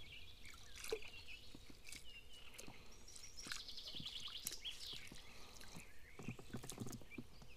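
Small birds chirping, with a fast trill about three and a half seconds in, over faint scattered clicks and some low rustling near the end.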